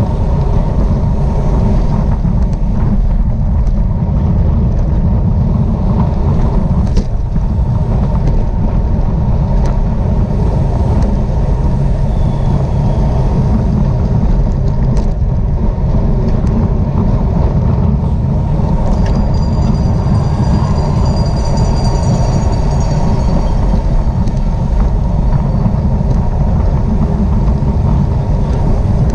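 Steady wind rush and buffeting on the microphone of a rider's camera during a bicycle race at speed, a loud low rumble throughout. A faint high tone with overtones sounds briefly about two-thirds of the way in.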